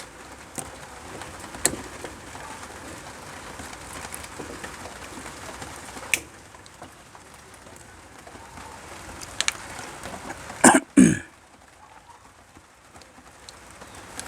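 Scattered clicks and light knocks of hands and tools working on an electrical switch, with a louder double clatter about eleven seconds in.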